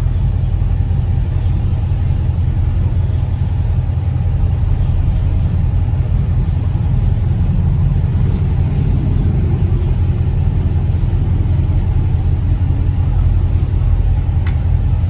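Car driving, a steady low rumble of engine and road drone.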